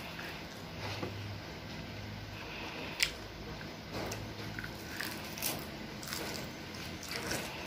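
Close mouth sounds of a child chewing crisp roasted seaweed sheets: soft chewing broken by short crackles and snaps, with one sharp snap about three seconds in.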